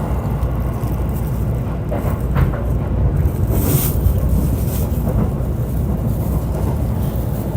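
JR E531 series electric commuter train running, heard on board: a steady low rumble of wheels on rail. A brief hiss comes about halfway through.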